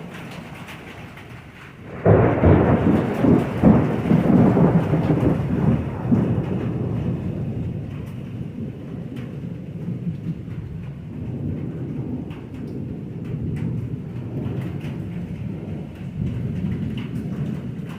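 Thunder from a nearby lightning strike: a sudden loud crack about two seconds in, then a long rumble that slowly fades, over steady rain.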